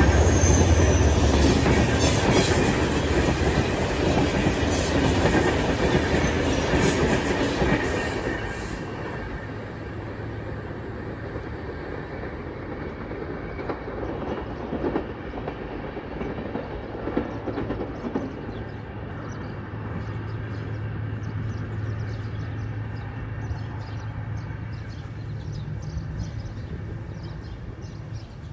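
Passenger coaches rolling away along the track, the wheels clicking over the rail joints. The sound fades over the first eight or nine seconds as the train pulls away, leaving a low, distant rumble with a few faint clicks.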